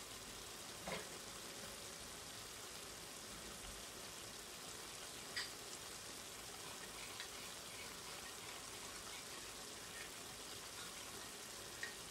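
Chicken and potato pie filling sizzling gently in a frying pan on the stove, a steady soft hiss, with a few faint clicks.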